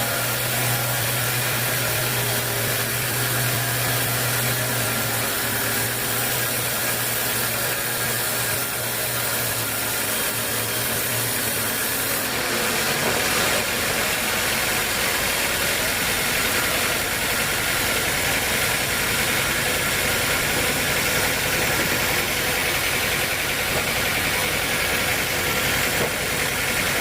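Sawmill machinery running steadily, its sound shifting about halfway through from a steady low hum to a broader, harsher noise.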